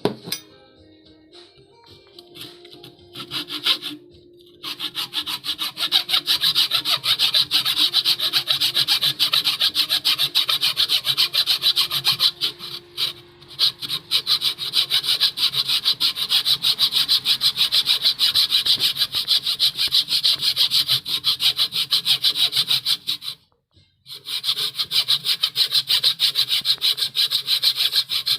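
Hand saw cutting through wood in fast, even back-and-forth strokes, starting a few seconds in, breaking off briefly near the end and starting again.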